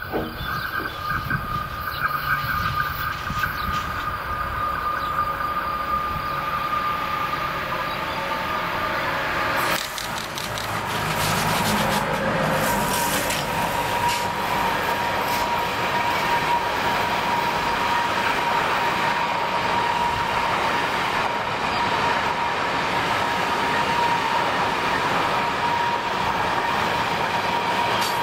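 Long intermodal freight train passing close by, its wagons rolling over the rails in a steady rush with a thin, steady wheel whine. It grows louder about ten seconds in.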